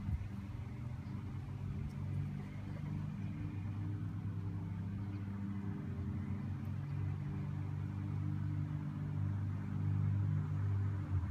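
A motor vehicle's engine hums steadily in the low range and grows louder near the end, as a car approaches along the street.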